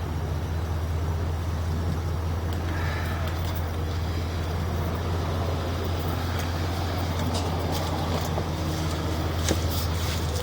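An engine idling steadily with a low, even hum, with a few light clicks near the end.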